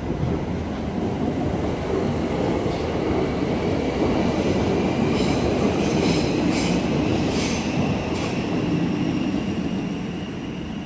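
Uetliberg line S-Bahn train running on the rails, growing louder to a peak midway and then fading. A few short high wheel squeals sound in the middle.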